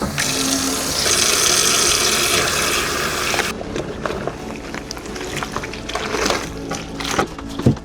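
Water running from a tap into a sink for about three and a half seconds, then shut off abruptly; scattered light knocks and clatter follow.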